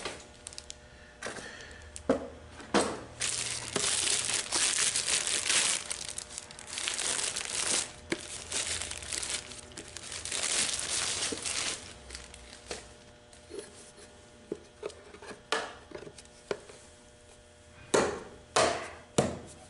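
Plastic crinkling and rustling in long stretches as a new transmission fluid filter is handled, then a few sharp knocks and clicks near the end as the filter is pushed into place on the transmission.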